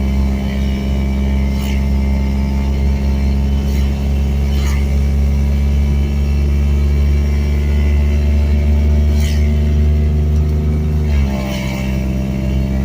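Geo Metro with an automatic transmission being driven, its engine running steadily under load. About eleven seconds in the engine note steps down, as the transmission shifts gear.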